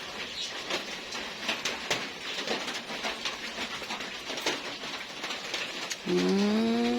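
Birds chirping in short, scattered calls, with a long, drawn-out pitched call about six seconds in.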